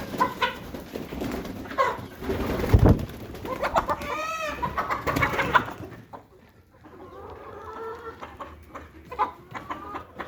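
Chickens clucking and calling in short bursts, with a dull low thump about three seconds in. The calls grow fainter for the last few seconds.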